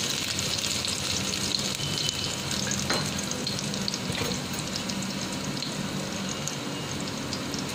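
Chopped green chillies and cumin seeds frying in hot desi ghee in a pan: a steady sizzle with small crackles and one sharper pop about three seconds in, over a faint low hum.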